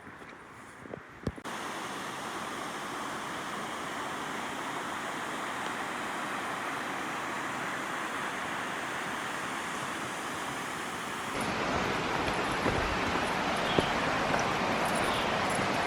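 Small stream's running water, a steady rushing sound. It gets louder suddenly about eleven seconds in, with a few faint knocks near the end.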